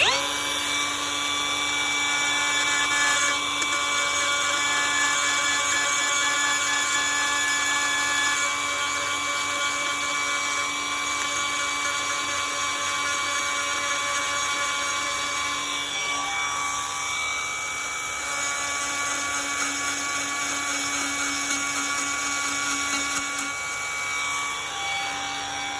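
A small high-speed rotary grinding tool starts up and runs with a steady high whine, grinding out damaged, delaminated fiberglass. Its pitch dips a little partway through as it bears on the work.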